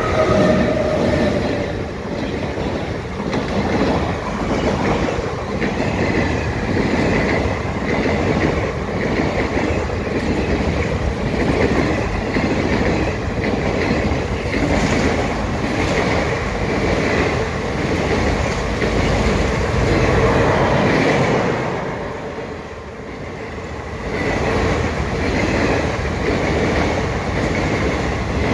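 Electric-hauled train passing close at speed: the locomotive goes by at the start, then a long string of wagons rattles past with a steady clickety-clack of wheels over rail joints.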